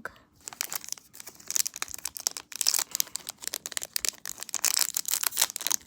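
Plastic packaging crinkling and tearing as a small blind-bag packet is handled and opened, in dense irregular crackles.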